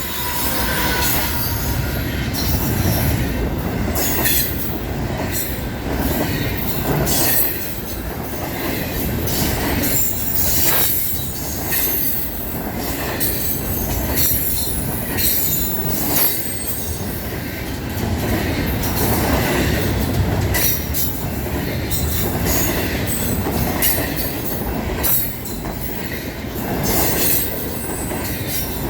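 Cars of an intermodal freight train rolling past: a steady rumble of steel wheels on rail, broken by frequent irregular clicks and clanks.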